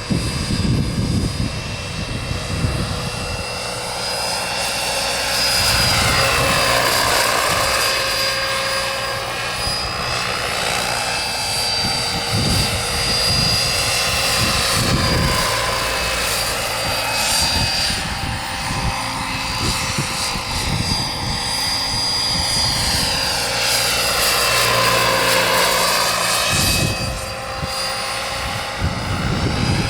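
Small RC turbine helicopter's Wren twin-shaft jet turbine whining steadily in flight, with the rush of the rotor. The tone sweeps down and back up twice as the helicopter moves about, once about seven seconds in and again near the end.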